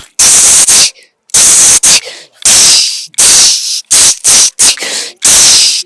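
A man imitating the jingle of ghungroo ankle bells with his mouth: about a dozen short, sharp, hissy bursts in an uneven walking rhythm.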